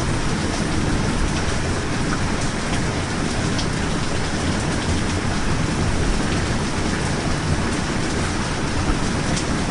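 Steady, heavy rain, a dense hiss with scattered drop ticks and a low rumble underneath.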